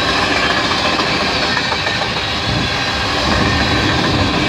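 Freight train cars (boxcars, then tank cars) rolling past at close range: a loud, steady rumble and clatter of steel wheels on the rails.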